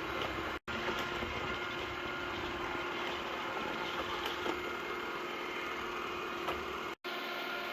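Yeedi Vac robot vacuum running, its suction motor and brushes giving a steady whirring hum with a few light clicks. The sound drops out for an instant twice.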